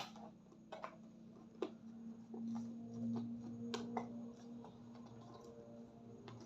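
Light clicks and knocks of objects being handled, over a low steady hum.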